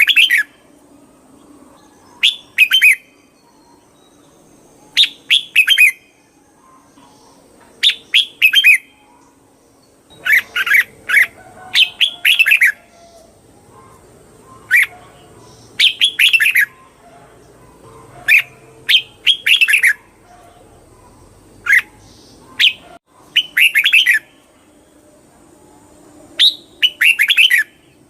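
Red-whiskered bulbul singing: short, bright warbled phrases repeated every one to three seconds, some coming in quick pairs.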